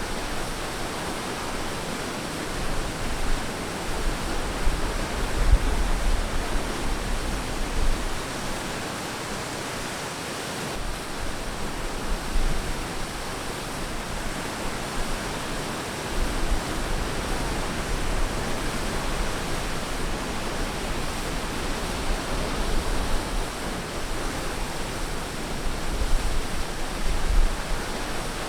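Ocean surf washing onto a beach: a steady hiss of breaking water that swells and eases every few seconds, with a low rumble as the bigger waves come in.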